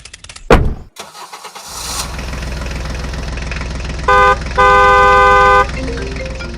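A sudden loud hit about half a second in, then a vehicle engine starting and running steadily. A short horn honk comes about four seconds in, followed at once by a longer honk.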